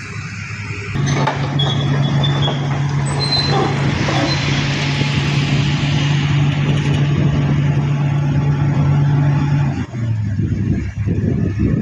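Heavy diesel engine running at a steady speed, then dropping to a lower pitch near the end, with a few brief high-pitched squeals a couple of seconds in.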